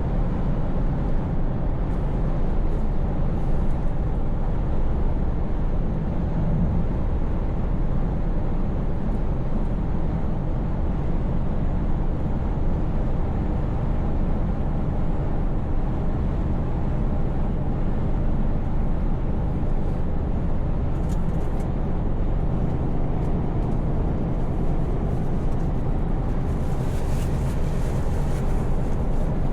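Scania V8 truck engine running steadily on the road, a low even drone with tyre and road noise. A brief hiss comes in near the end.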